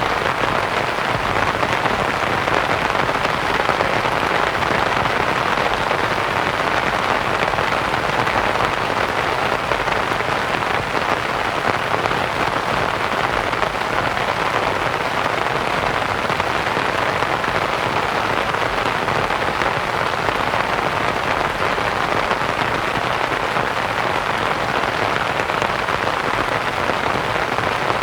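Steady rain pattering on a canvas tent, mixed with an even white-noise hiss.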